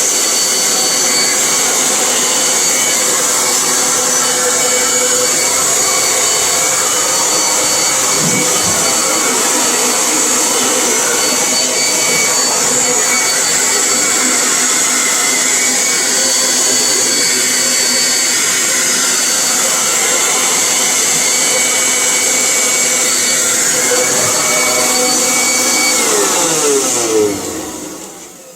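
Leaf blower running at a steady full blast, a loud rushing roar with a high whine, blowing water out of a tankless water heater to dry its wet moisture sensor. About two seconds before the end it is switched off and winds down, its pitch falling away.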